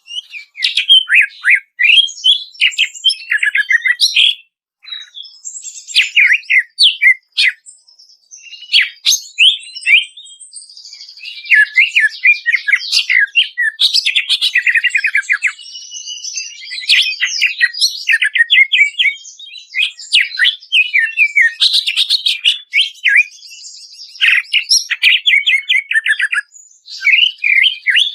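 Cucak ijo (green leafbird) singing loudly: fast, varied runs of sharp chirps, slurred whistles and rattling trills, broken by brief pauses.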